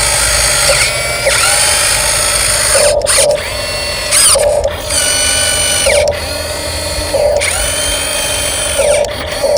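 RC dump truck's electric motor and gearbox whining in repeated bursts of throttle, about one a second, the pitch rising as each burst starts and falling as it ends.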